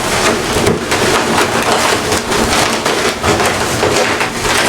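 Inflated latex 360 modelling balloons rubbing and squeaking against each other as they are twisted together, a dense crackling rub of latex on latex.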